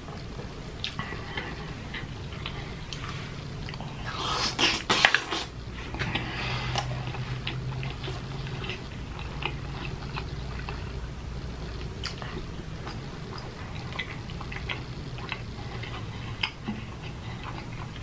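Close-miked chewing and mouth sounds of someone eating, small irregular wet clicks throughout, over a steady low hum. A louder burst of noise comes about four seconds in.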